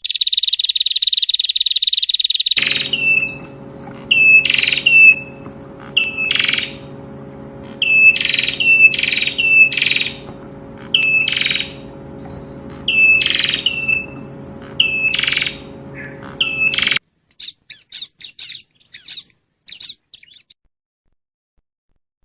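Prenjak (prinia) song: a fast buzzy trill for about two and a half seconds, then about a dozen sharp, high falling notes spaced a second or so apart over a steady low hum. Near the end come faint scattered chirps, stopping some seconds before the close.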